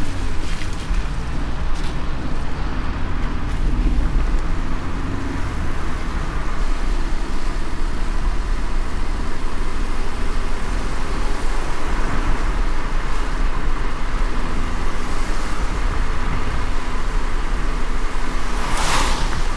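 Car driving in light rain: steady tyre and road noise with a low rumble. A brief whoosh comes near the end.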